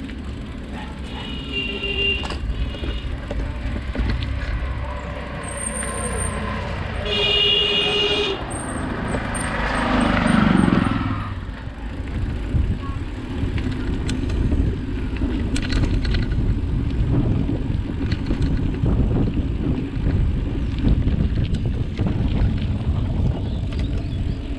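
Steady wind and road rumble while riding along a road. A vehicle horn toots twice in the first eight seconds, and a vehicle passes about ten seconds in.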